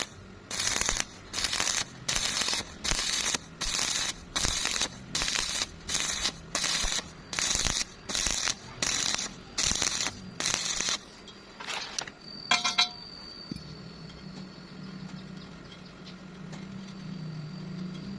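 Electric welding arc struck in short, even bursts of hissing crackle, about one and a half a second, as in stitch welding. It stops after some eleven seconds, and a single sharp metallic click and a steady low hum follow.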